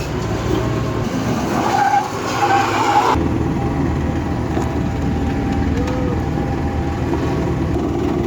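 Heavy truck engine running under load, with a high squeal over it in the first three seconds; about three seconds in the sound cuts abruptly to a low, steady engine sound.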